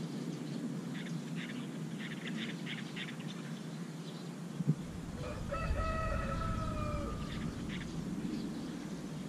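A rooster crows once, a single drawn-out call lasting about a second and a half, a little past the middle. Steady low outdoor background noise runs throughout, with faint quick ticks in the first few seconds and a deeper rumble coming in about halfway.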